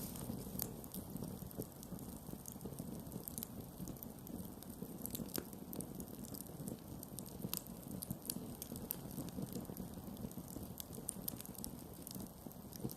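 Campfire crackling: irregular sharp pops and snaps of burning wood over a steady low rush of the flames, with one stronger pop about five and a half seconds in.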